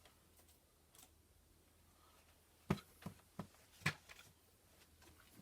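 Four short, sharp clicks and knocks over about a second, a little past halfway: small objects being picked up and set down on a work table, likely the remover bottle and its cap.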